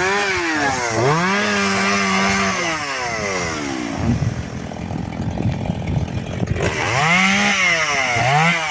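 Chainsaw cutting hard firewood, its engine revving up and dropping again about once a second as the chain bites into the wood. Near the middle it runs rougher and lower for a couple of seconds before the rising and falling revs return.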